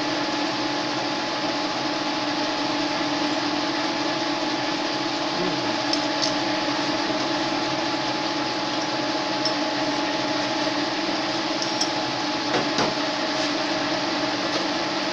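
Metal-turning lathe running steadily, turning a steel blank, with a constant hum and a few faint ticks in the second half.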